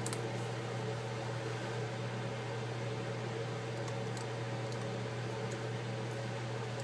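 Steady low hum with an even hiss, broken by a few faint light ticks from small parts being handled.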